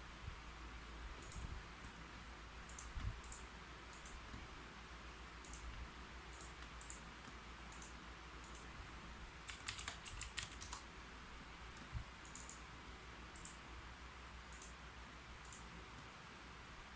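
Keyboard typing: scattered single keystrokes with a quick run of several keys about ten seconds in.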